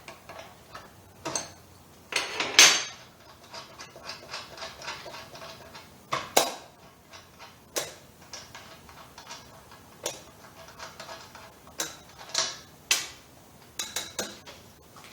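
Hand tools and metal parts clinking and clanking at irregular moments while the minibike's rear axle is taken out, the loudest clank about two and a half seconds in.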